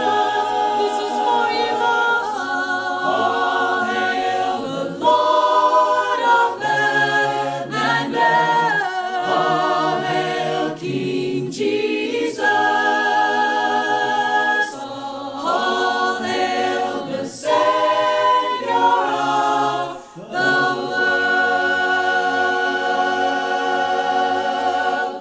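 A choir singing a cappella in four-part harmony, phrase after phrase of sustained chords, ending on a long held final chord that cuts off abruptly.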